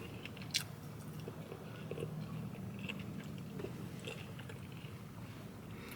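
A person chewing food close to the microphone, with quiet mouth sounds and a few small clicks and crunches over a faint low steady hum.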